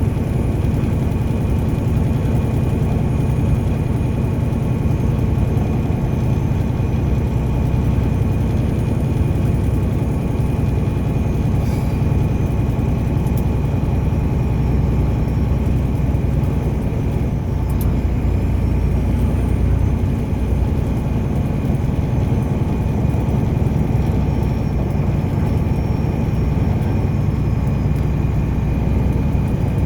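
A car driving at steady speed: a constant low rumble of engine and tyre noise, with a faint steady whine over it and two light clicks, one near the middle and one a few seconds later.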